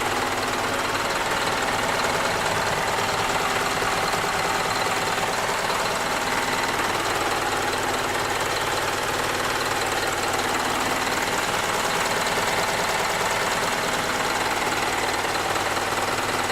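Isuzu Forward truck's 4HK1-TCS 5.2-litre intercooled turbo diesel running steadily at idle, at an even speed throughout.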